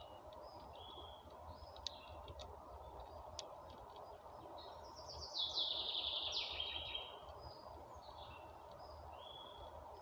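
Songbirds chirping, with a louder run of rapid high notes from about five to seven seconds in, over a steady background hiss. A few faint sharp clicks sound between two and three and a half seconds in.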